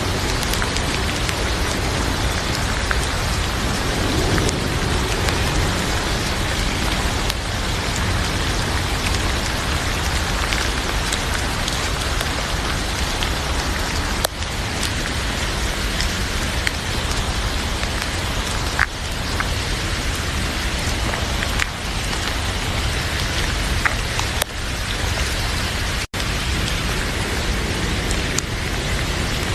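Heavy rain pouring steadily, with scattered small crackles from a wood fire in a fireplace. The sound cuts out for an instant about three-quarters of the way through.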